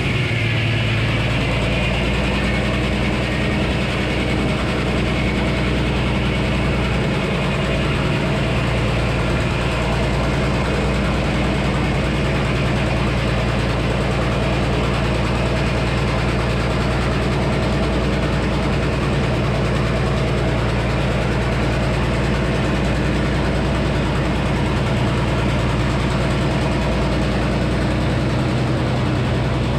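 Frick sawmill running: the power engine runs steadily, driving the 48-inch circular saw, with a high whine that fades away over the first ten seconds or so.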